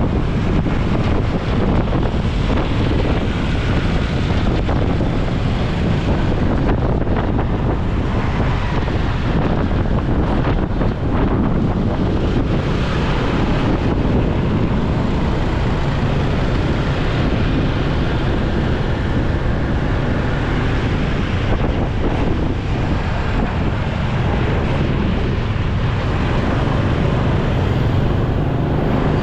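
Wind buffeting the microphone of a moving motorcycle, with the bike's engine running steadily underneath and road traffic around it.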